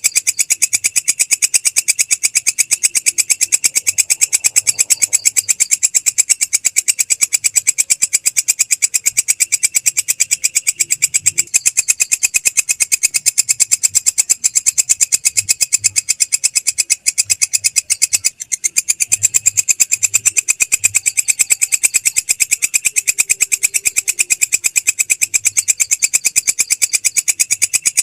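Belalang krek, a singing Indonesian grasshopper, calling in a fast, even, rasping pulse train of several strokes a second. The call is high-pitched, with one short break past the middle.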